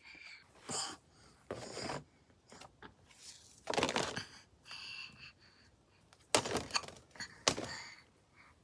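Scattered short rustles and soft knocks, with two sharper knocks about six and a half and seven and a half seconds in.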